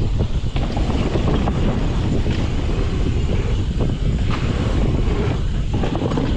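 Wind buffeting the microphone and mountain bike tyres rolling fast over a dirt flow trail, with scattered clicks and rattles from the bike.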